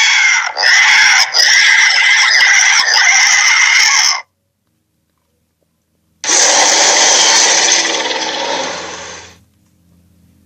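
Two giant-creature sound effects, loud rasping calls: the first lasts about four seconds with two short breaks, then after about two seconds of silence a second one starts and fades away over its last second.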